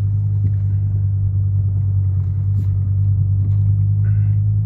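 Mercedes-Benz C 270 CDI's five-cylinder turbodiesel running with a steady low drone as the car drives along, heard from inside the cabin. The owner puts the car's unusual sound down to something having gone wrong with the exhaust.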